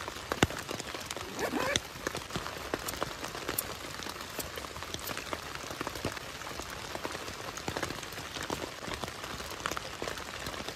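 Steady rain falling, with many sharp drops striking close by, and one louder tap about half a second in.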